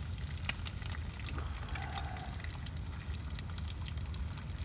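Eggs frying in a pan with bacon: a sizzle with scattered pops and crackles over a steady low rumble.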